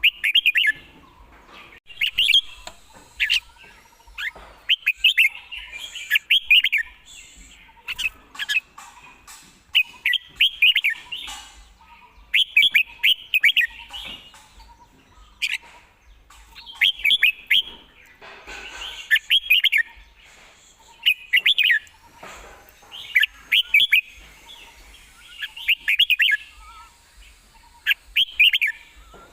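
Red-whiskered bulbul singing short, quick whistled phrases, repeated every second or two.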